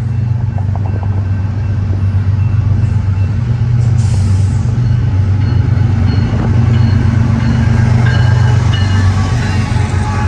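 Westbound BNSF manifest freight train passing, its diesel locomotives giving a loud, steady low drone that swells after a few seconds. A short hiss comes about four seconds in, and faint high steady tones join over the rolling train in the second half.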